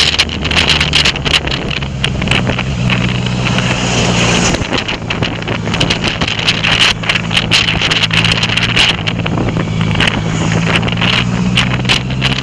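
Honda CBR650F's inline-four engine running through an Akrapovic full exhaust while riding, its note fairly steady, with wind buffeting the camera microphone.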